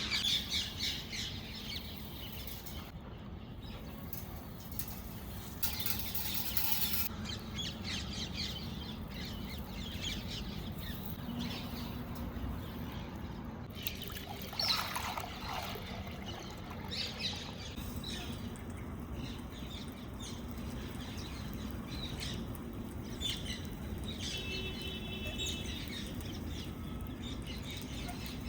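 Indian ringneck parrots (rose-ringed parakeets) giving short, scattered chirps and squawks over a steady low hum.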